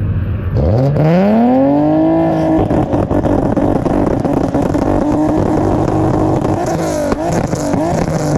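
Car engine idling, then revved hard about half a second in, the revs climbing steeply over about two seconds and held high for several seconds. Near the end there are a few sharp cracks and the revs dip.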